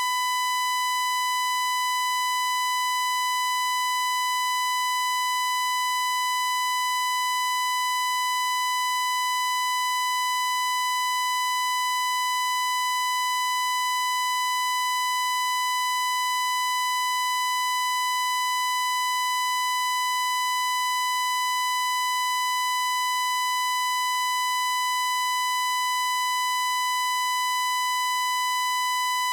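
A single continuous electronic tone, high-pitched and unchanging in pitch and loudness, with a harsh, buzzy edge from its stack of overtones.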